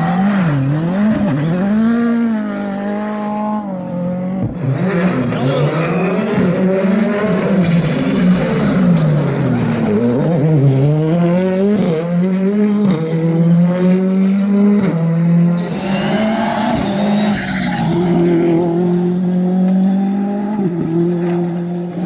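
Ford Fiesta R5 rally car's turbocharged four-cylinder engine, its revs rising and falling again and again through corners and gear changes, then held more steadily in the second half, with short bursts of hiss.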